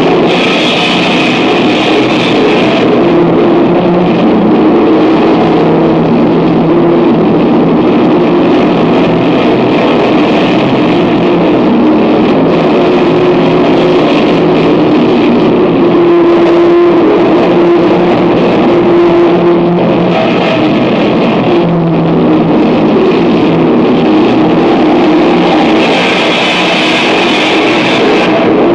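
Harsh noise music: a loud, dense, unbroken wall of distorted noise with droning low tones underneath and a brighter hissing layer that comes in near the start and again near the end.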